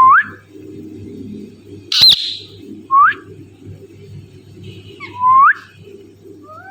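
Indian ringneck parakeet giving short rising whistled calls, three of them spaced a couple of seconds apart. One loud, sharp screech comes about two seconds in.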